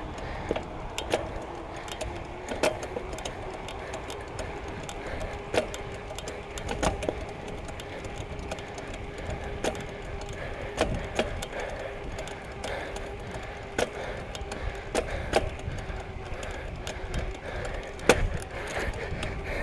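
A bicycle being ridden: irregular clicks and rattles from the bike, about one or two a second, over a steady faint hum, with low rumbling noise underneath.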